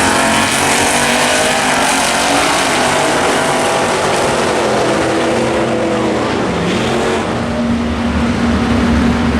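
Drag racing cars with loud engines running hard on the strip. The engine pitch shifts up and down, and a steadier engine tone holds through the last couple of seconds.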